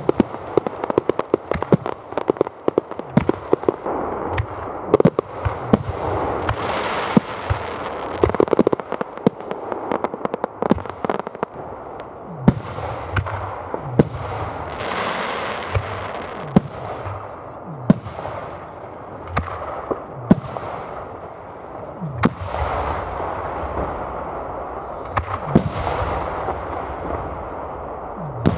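Aerial fireworks shells bursting, with sharp bangs and crackling. For the first ten seconds or so the bangs come thick and fast, then they settle into single booms every second or two over a steady crackle.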